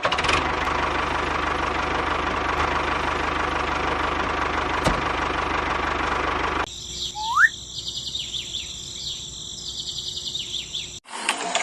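A small motor-driven machine runs steadily with a fast even churn, then cuts off abruptly a little over halfway through. Birds then chirp and whistle, with one short rising whistle.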